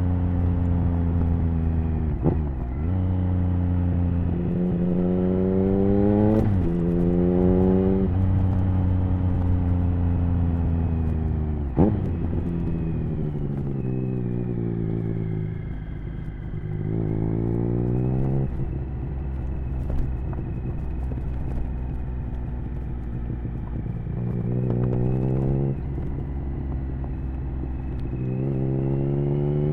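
Triumph Speed Triple 1050's inline three-cylinder engine running through an HP Corse Hydroform exhaust while riding. The revs climb and drop sharply again and again as it goes through the gears, with a long fall in revs a little before halfway as it slows, before it pulls hard again.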